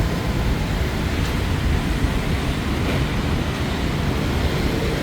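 Heavy street traffic, mostly motorbikes and scooters, running as a steady, dense rumble without a break.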